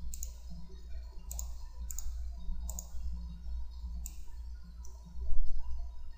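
Computer mouse clicking: about half a dozen sharp, irregularly spaced clicks over a steady low electrical hum, with a louder low thump about five seconds in.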